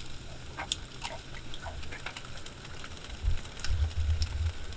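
A dog eating a piece of cooked wood duck: irregular soft chewing, licking and smacking clicks, with low rumbling thumps beneath, strongest near the end.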